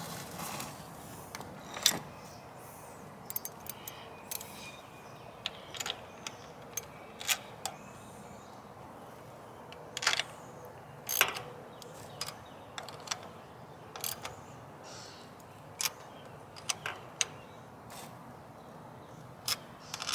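Scattered light metallic clicks and clinks of hand tools working on a riding mower's carburetor mounting screws, irregularly spaced, some single and some in quick pairs.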